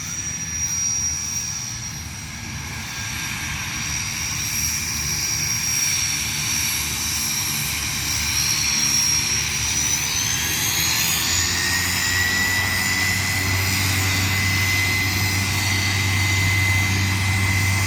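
Single-engine Quest Kodiak's Pratt & Whitney PT6A turboprop running with a steady high turbine whine over a low propeller hum, growing louder as the plane nears. About ten seconds in, a whine rises in pitch and then holds.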